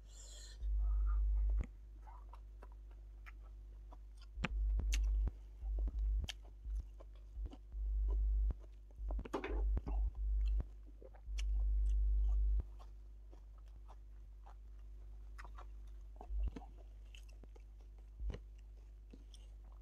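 Close-miked eating: chewing and mouth clicks, a rapid run of clicks about halfway through. Several short, loud low rumbles come and go, the loudest things heard.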